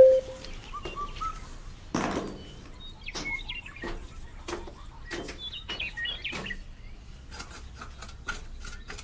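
Birds chirping in short calls, mixed with scattered light taps, knocks and rubbing of small hard objects, with a sharper knock about two seconds in.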